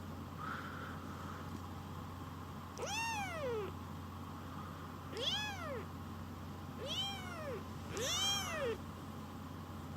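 Baby kitten meowing four times, each call high and short, rising then falling in pitch.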